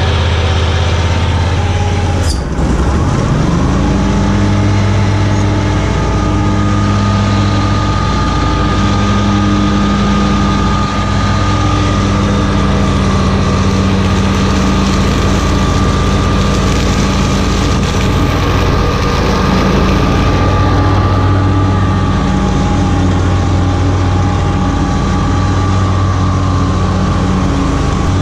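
61-inch Ferris mower's engine running loud and steady. About two seconds in, its pitch dips and then climbs to a higher steady speed, which it holds.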